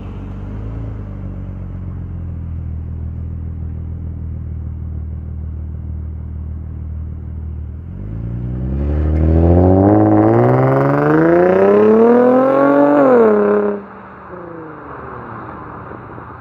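Infiniti G35's 3.5-litre V6 through an Invidia cat-back exhaust with its resonators piped straight through, running at a steady low note, then accelerating hard about eight seconds in, its pitch and loudness climbing for about five seconds before the throttle is cut off abruptly, leaving a quieter falling note as it coasts.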